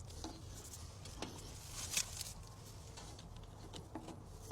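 Faint scattered clicks and rustles of hands handling a battery cable and its terminal bolt, with a few light metallic taps.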